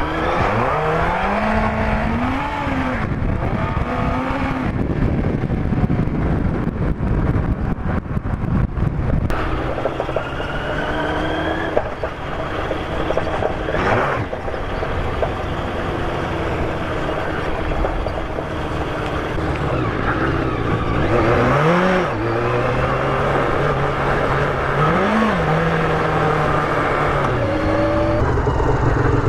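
Street sport motorcycle engine riding on a dirt forest road. The revs rise and fall with the throttle, with short blips about two-thirds of the way through, over steady rough road and wind noise.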